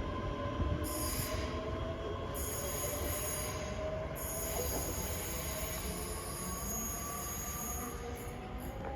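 Electric multiple-unit train moving at the platform, its wheels squealing in steady tones that drift slowly in pitch over a continuous low rumble.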